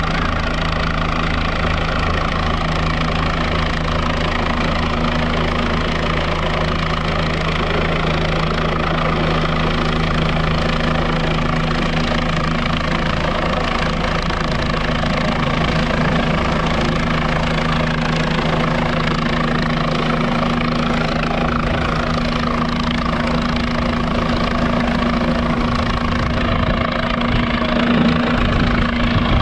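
Rescue helicopter hovering low: a steady rotor and engine drone with several held tones, and a deeper rumble that builds over the last few seconds.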